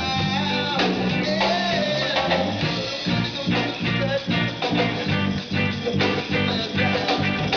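A band playing an instrumental passage of a ska-tinged Latin rock song, with drum kit and bass keeping a steady beat under guitar lines.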